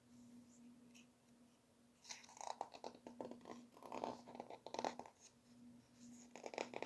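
Pages of a picture book being turned and handled: faint rustling and crinkling of paper in a cluster from about two to five seconds in, with a few more rustles near the end, over a low steady hum.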